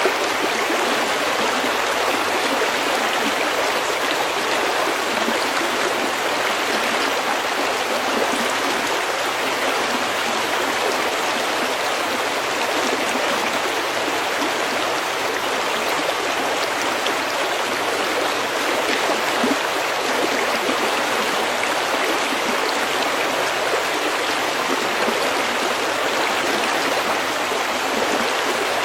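A stream running steadily over pebbles, an even rush of water with fine splashing and no change in flow.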